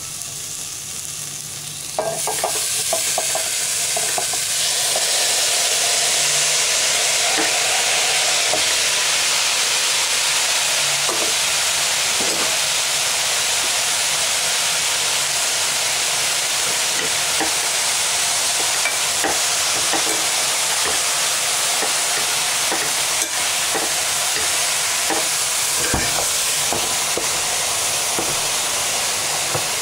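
Chopped greens going into hot oil and fried tempering in a pressure cooker and sizzling, the sizzle jumping much louder about two seconds in and staying loud. Short taps and scrapes of stirring come through it now and then.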